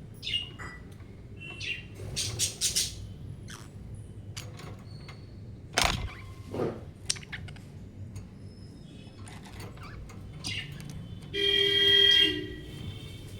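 Budgerigars chirping and calling in short, scattered chirps. Near the end, a louder, horn-like tone sounds for about a second.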